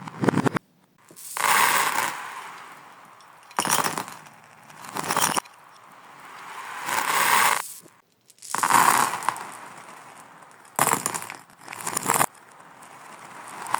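Beads and small cubes clattering and rattling, played in reverse: a series of about eight bursts, several of which swell up and then cut off abruptly.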